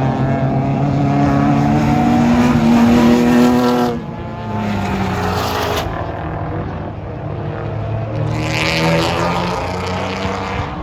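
Race car engines running on track: one revs up, its pitch climbing, and lifts off sharply about four seconds in; another engine rises again near the end.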